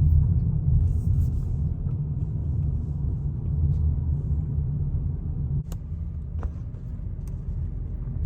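A loud, steady low rumble, with a few faint ticks in the second half.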